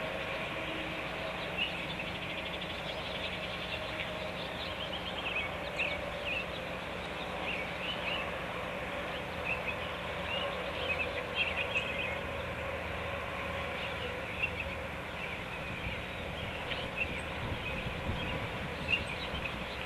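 Scattered short bird chirps over a steady background hum and noise.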